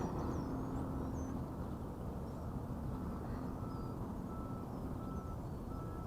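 Quadcopter's motors and propellers humming steadily, with birds chirping faintly in the background.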